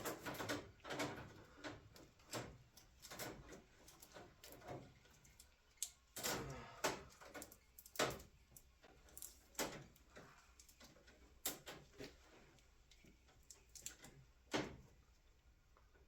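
Hand tools and metal brake-line parts being handled: irregular clicks, knocks and a few short scrapes, the loudest knocks about eight and a half seconds and fourteen and a half seconds in.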